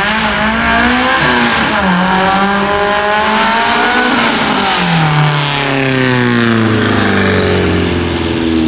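A loud high-performance car engine accelerating hard, its pitch climbing in steps as it shifts up through the gears, then falling in one long glide over the second half as it drives past and eases off.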